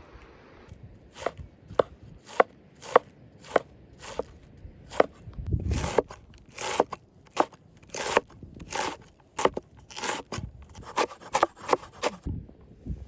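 Knife chopping food on a cutting board: sharp separate strokes, about two a second at first, then quicker and less regular.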